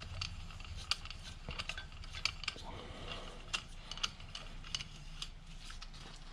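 Irregular light metallic clicks and taps of hand tools being handled on an engine cylinder head, over a low steady hum.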